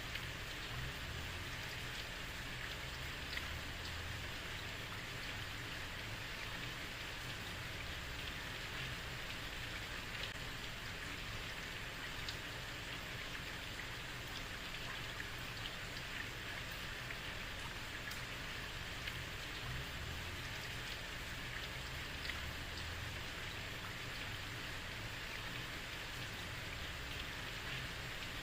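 Heavy rain falling steadily on a street, an even hiss with scattered close drop ticks and a low rumble underneath.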